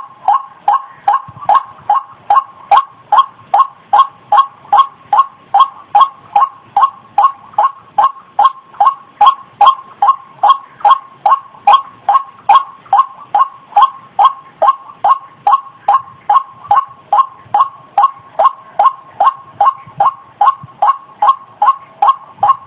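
White-breasted waterhen ('ruak-ruak') call: a short, harsh 'kruak' note repeated monotonously at an even pace of about two and a half notes a second.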